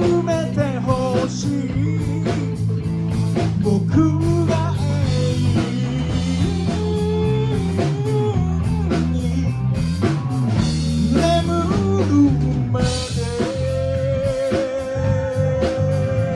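Live rock band playing: drums, bass and electric guitar under a sung melody, with a long held note wavering in vibrato over the last few seconds.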